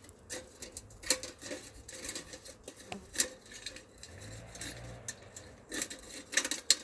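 Irregular clicks, snaps and rattles of dry sticks, pine needles and wood pellets being handled and packed into a bee smoker's metal canister.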